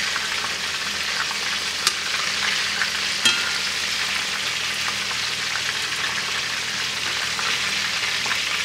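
Slices of venison tenderloin sizzling steadily as they pan-fry in hot oil in a cast-iron skillet. Metal tongs clink sharply against the pan twice, about two and three seconds in.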